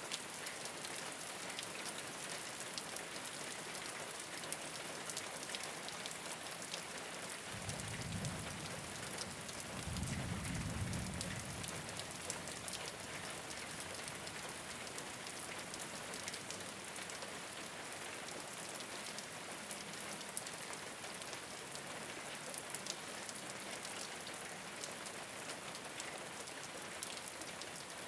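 Steady rain falling on a rooftop: a dense even hiss peppered with fine drop ticks. About a third of the way in, a low rumble swells twice, each time for a second or two.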